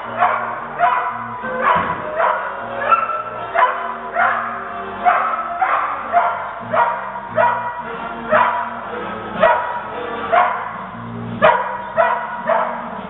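A dog barking over and over, about one bark a second, at a steady pace over background music.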